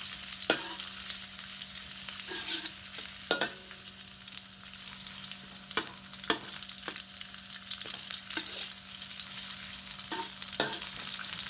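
Shallots, garlic, chilli and belacan sizzling in hot oil, a steady frying hiss, with a utensil clicking against the pan several times as they are stirred.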